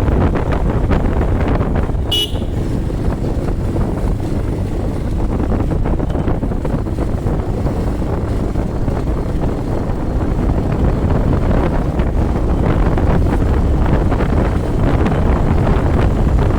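Wind buffeting the microphone and a motorcycle running on the move, a steady loud rush. A vehicle horn gives one short beep about two seconds in.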